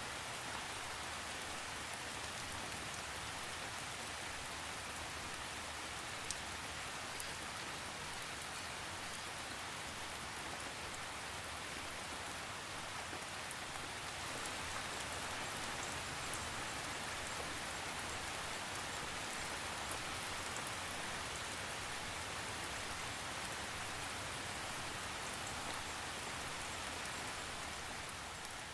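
Steady rainfall, an even hiss of rain on a surface with occasional sharper drop ticks and no thunder.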